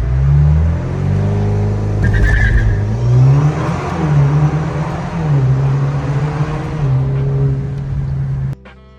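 Alfa Romeo Giulia's 2.0-litre turbo four-cylinder running through an AFE straight axle-back exhaust with a resonator delete, with a deep exhaust note. The revs climb and drop back several times, as if through a series of hard upshifts. It cuts off suddenly near the end.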